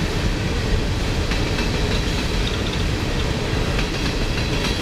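Freight train of coal hopper cars rolling past, a steady low rumble with a few sharp clacks of wheels over rail joints.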